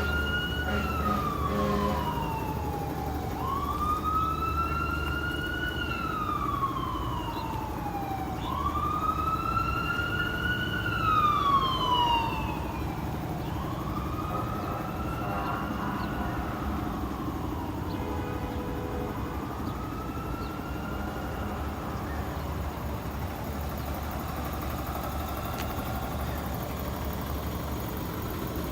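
An emergency-vehicle siren in a slow wail, each cycle rising quickly and falling slowly about every four seconds, fading away after about twelve seconds. A steady low rumble runs underneath.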